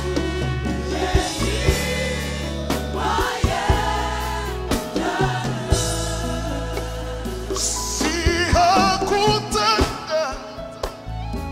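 Live gospel music: a band with a steady bass line, and voices singing over it, coming in more strongly near the end.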